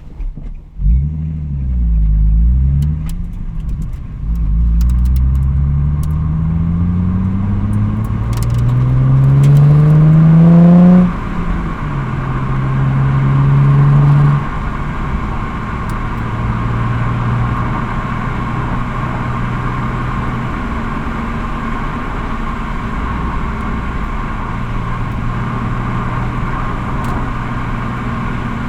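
Nissan 350Z (Z33) 3.5-litre V6 and exhaust: a quick throttle blip about a second in, with the revs rising and falling as for a double-clutch shift. Then the revs climb steadily under acceleration for several seconds and drop sharply on the shift. The engine then runs at a steady cruise.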